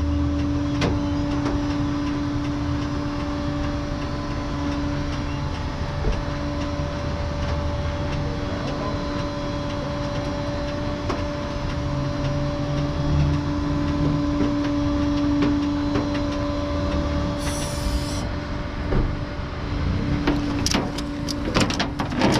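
Tow truck idling, a low engine rumble with a steady hum over it, and a few short clicks near the end.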